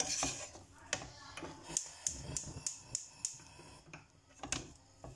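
Kitchen utensils and dishes being handled: a string of light, irregular clicks and taps.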